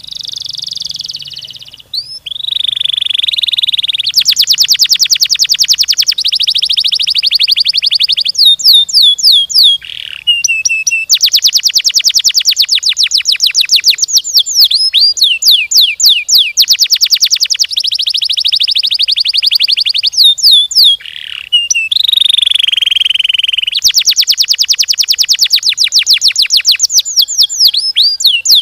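Domestic canary singing a long, loud, unbroken song of very fast rolling trills, made of rapidly repeated high notes. The trills are broken here and there by a few quick downward-sliding whistles.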